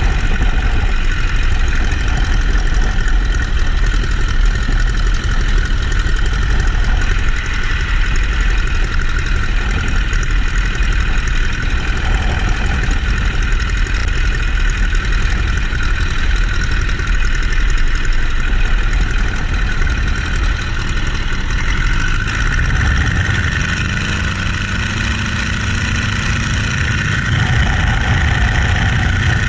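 Boeing-Stearman biplane's radial engine running steadily in flight, with heavy wind rush in the open cockpit. A little over two-thirds of the way through, the engine note shifts and the sound dips slightly before building back up.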